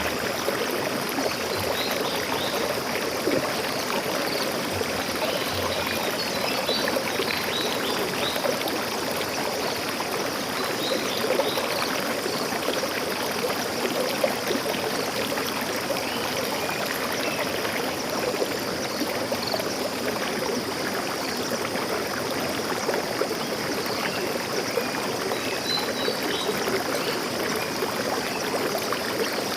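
Stream water flowing and trickling steadily, an even, unbroken rush of running water.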